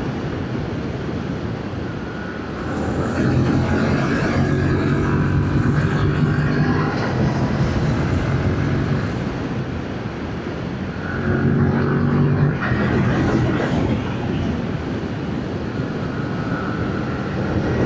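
Yamaha MT-07's parallel-twin engine, on its stock exhaust, running at steady revs while riding, under a constant rush of wind on the microphone. The engine note grows louder twice, about three seconds in and again about eleven seconds in.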